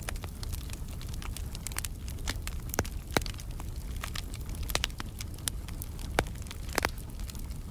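Wood fire in a fireplace burning and crackling, with irregular sharp pops over a steady low rumble of the flames.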